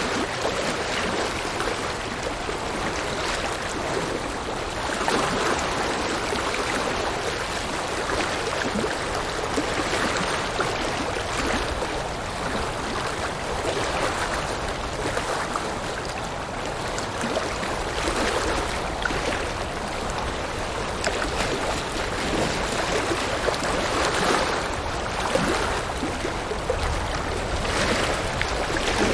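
River water running over rocks: a steady rushing and babbling that swells and eases gently.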